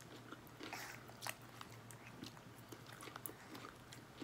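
Faint chewing of Chinese takeout food, with soft mouth clicks and a few small ticks.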